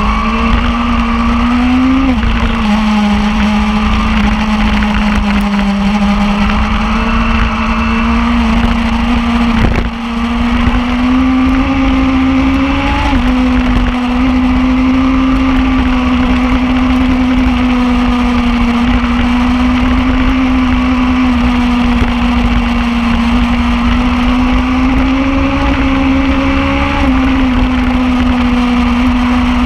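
Superbike engine running at a steady high pitch that holds for a long stretch, shifting slightly a few times, over a heavy low rumble.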